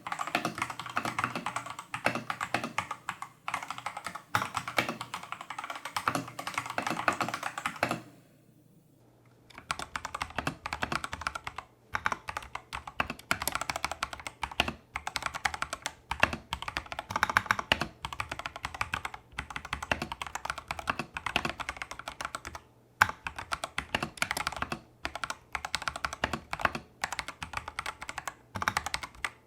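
Fast typing on a Tester68 mechanical keyboard with stock, factory-lubed Holy Panda clone tactile switches and XDA-profile keycaps: a rapid, uneven stream of key clacks, with a pause of about a second and a half about eight seconds in.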